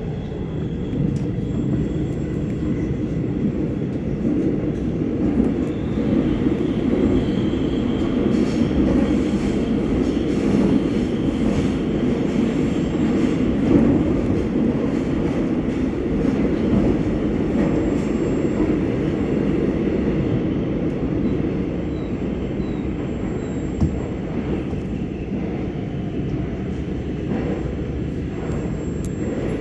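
Korail Class 351000 electric multiple unit running at speed between stations: a steady low rumble of wheels on rail, with one short tap partway through.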